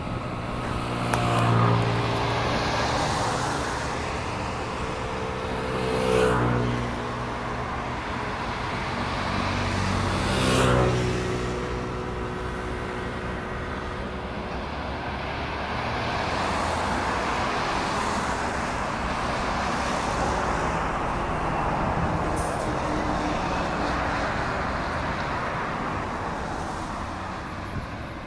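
Scania trucks' diesel engines passing one after another on a motorway exit, each swelling and fading as it goes by, three passes in the first half. Then a longer, steady swell of tyre and traffic noise.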